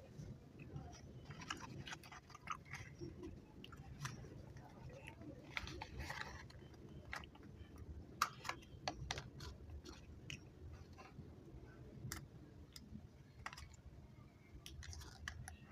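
Close-up chewing of chewy chocolate candies, with many irregular wet mouth clicks and smacks.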